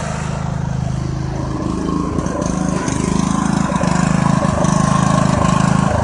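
Riding tractor's engine running steadily. Its note shifts about two seconds in, then grows a little louder.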